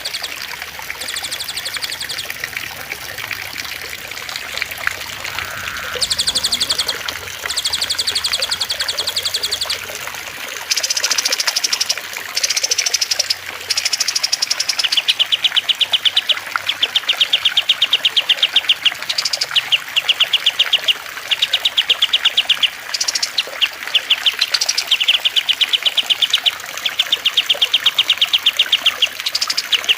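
Recorded cage-bird song of the cililin, kastem and lovebird: fast, buzzy, high trills repeated one after another over the steady trickle of running water. From about halfway the trills come in a regular series of one- to two-second runs with short gaps between them.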